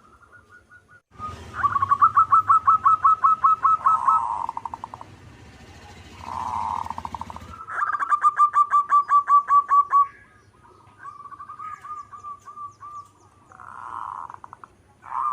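Zebra doves (perkutut) singing: several phrases of rapid, evenly repeated short notes, each run ending in a softer rolling coo. A low hum sits under the first half.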